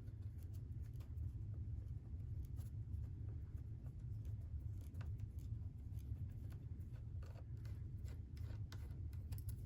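A T8 Torx driver turning out tight screws from an iMac's case, with faint scattered clicks and light scrapes of the bit and screw threads over a steady low hum.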